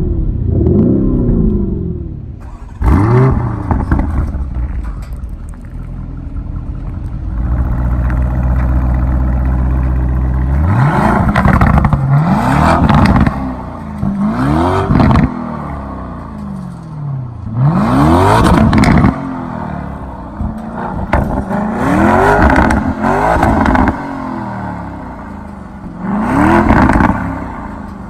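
Lamborghini Urus twin-turbo V8 in Corsa mode, blipped about nine or ten times: each time the pitch climbs quickly and falls back, with short spells of lower, steadier running between the revs and one longer steady stretch near the middle.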